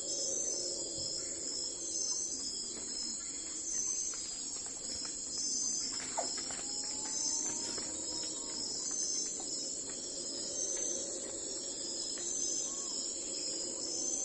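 A chorus of crickets chirping steadily, high-pitched and pulsing in an even rhythm, over a faint low background hum.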